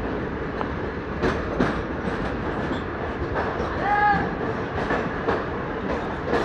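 Passenger train running through a tunnel, heard from on board: a steady rumble of wheels on rail with scattered clicks. A brief high squealing tone rises and falls about four seconds in.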